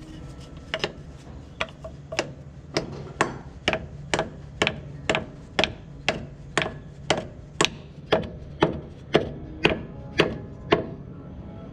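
A hammer striking metal again and again at an even pace of about two blows a second, each blow ringing briefly. The blows start about a second in and stop shortly before the end.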